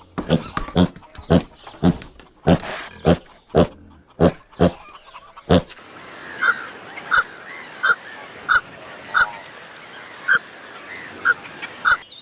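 Farm animal calls: a rapid run of short, sharp calls about twice a second, then, after a change about halfway through, a series of brief high single peeps spaced about half a second to a second apart.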